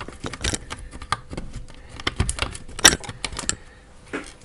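A quick, irregular run of small clicks and taps as the parts of an e-bike battery pack are handled and fitted together by hand, the loudest sharp click about three seconds in, then a last tap a moment later.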